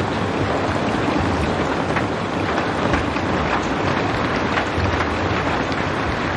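Steady heavy rain, a dense hiss with scattered drop ticks and a low rumble underneath.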